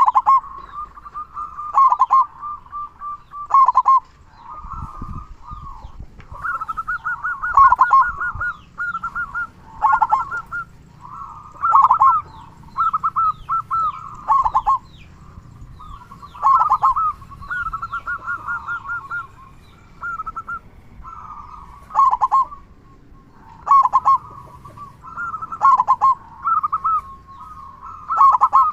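Zebra dove (perkutut) singing over and over, its rapid trilled cooing phrases broken by loud, deep "kung" notes that slide downward about every two seconds. It is a male in full song with a big "kung".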